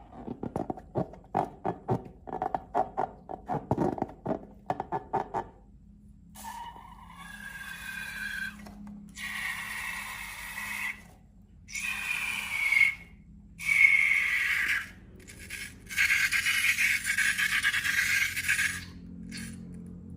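Slime and rubber balloons being handled. For about five seconds there is a quick run of short squelches, then a series of longer squeaky scraping strokes with short pauses between them.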